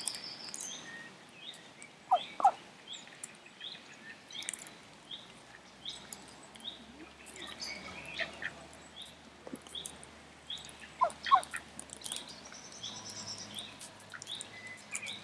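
Outdoor birdsong: a small bird repeats a short high chirp about twice a second, and a louder, lower two-note call comes twice, about two seconds in and again about eleven seconds in.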